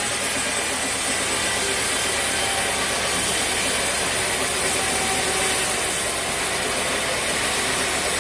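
Sawmill saw cutting steadily through an old, dense-fibred teak log: an even, continuous sawing noise with the machine running underneath.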